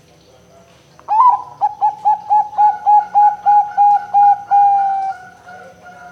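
Zebra dove (perkutut) singing: a quick run of about a dozen short, even cooing notes, roughly three a second, ending in one longer drawn-out coo.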